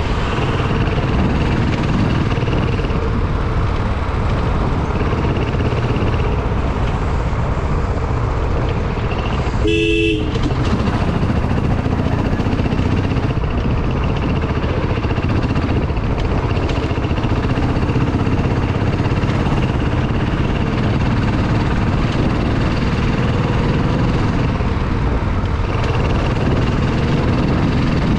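Motorbike running steadily under way, with heavy wind rumble on the microphone; a short horn beep about ten seconds in.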